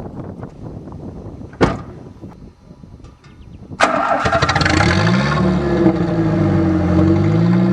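A thump, then a car's engine starting about four seconds in and settling into a steady idle whose pitch dips and rises, heard from a microphone close to the exhaust at the rear of the car.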